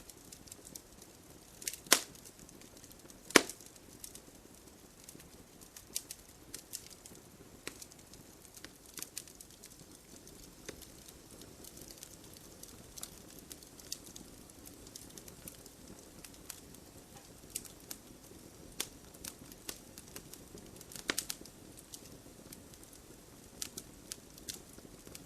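Wood logs burning in a fireplace, crackling: irregular sharp pops and snaps over a soft steady hiss. The two loudest pops come about two and three and a half seconds in, and a quick flurry of crackles follows later on.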